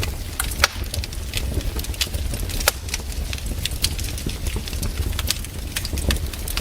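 Campfire crackling: irregular sharp pops and snaps, a few louder than the rest, over a steady low rumble of the burning fire.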